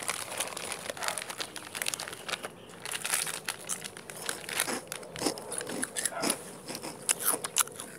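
Close-up eating sounds: irregular crunching and crinkling clicks, several a second, of crunchy food being chewed and handled near the microphone.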